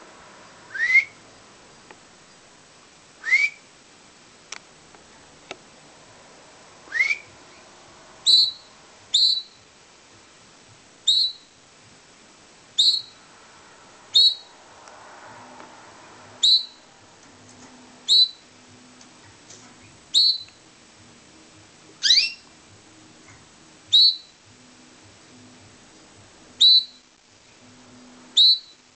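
Pet canary giving short single chirp calls, one every second or two; some are quick upward-sliding whistles, others brief high chirps.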